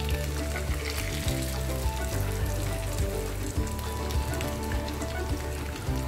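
Oil sizzling steadily around breadcrumb-coated eggplant and tofu patties shallow-frying in a pan, over background music.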